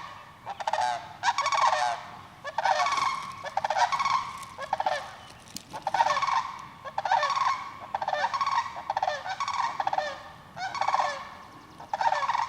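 Wild turkeys calling loudly and repeatedly, one call after another about once or twice a second, several birds overlapping with hardly a break.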